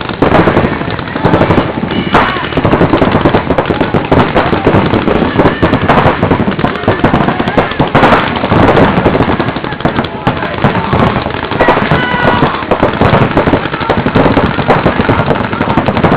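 Many paintball markers firing rapid strings of shots at once, a dense unbroken crackle of pops, with voices shouting over it.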